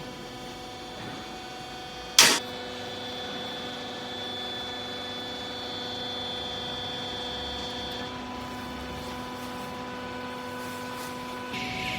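A rag baler machine humming steadily, with a single sharp clank about two seconds in.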